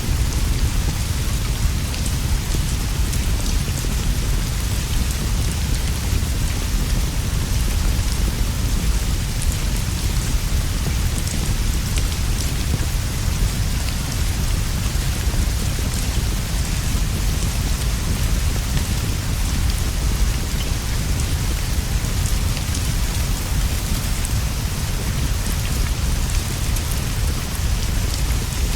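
Steady heavy rain falling continuously, with a constant deep rumble underneath and faint scattered ticks of drops.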